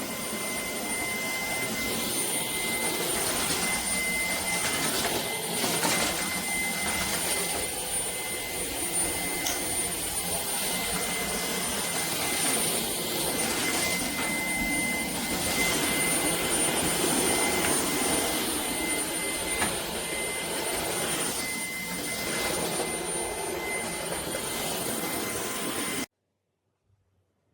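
Shark cordless vacuum cleaner running: a steady rush of airflow with a constant high motor whine, its level rising and falling slightly. It stops abruptly about 26 seconds in.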